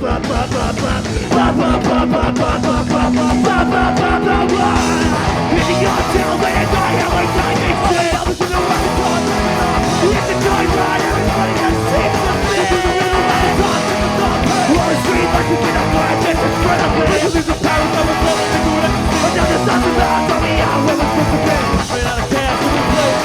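Ska-punk band playing live: drums, electric guitar and bass at full volume, with a held low note early on and some shouting.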